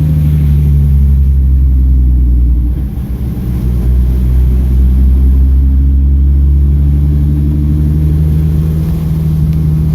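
Hyundai Genesis Coupe's 3.8-litre V6 engine running at fairly low, steady revs. Its pitch eases down over the first few seconds and dips briefly about three seconds in, then picks up a little and holds.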